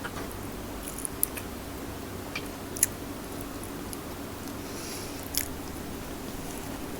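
Close-miked chewing of a mouthful of squid sisig and rice: soft mouth sounds with a few sharp clicks, the loudest about three seconds in, over a steady low hum.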